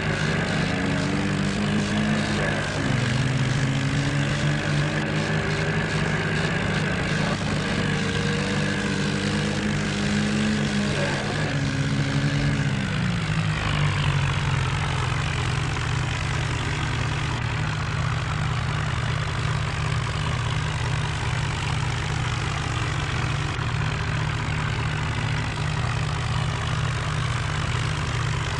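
Tractor diesel engine running, its pitch rising and falling for the first dozen seconds, then dropping about thirteen seconds in and holding steady at a lower speed.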